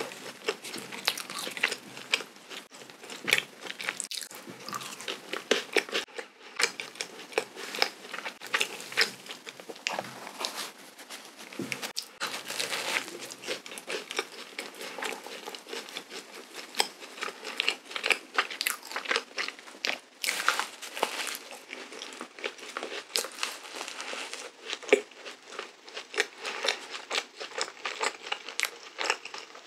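Close-miked chewing and biting of a soft, sugar-dusted cream-filled donut: a dense, irregular run of small wet mouth clicks and smacks.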